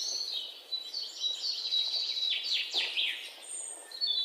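Birds chirping and calling, with a run of quick falling chirps about two to three seconds in.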